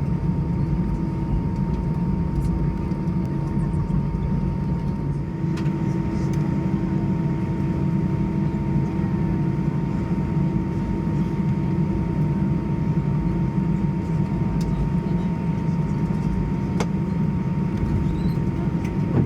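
Airbus A320 cabin noise while taxiing in after landing: a steady low rumble from the jet engines at idle and the cabin air, with a few faint steady hums above it.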